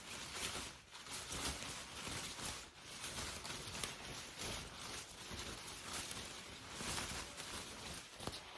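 Steady rain falling: an even hiss with many faint drop taps.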